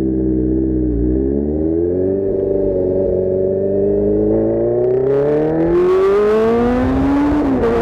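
Kawasaki Z1000's inline-four engine through an Arrow full-system exhaust, pulling under acceleration with its pitch rising steadily for several seconds, then dropping sharply near the end as it shifts up. Wind rush builds over the engine in the second half.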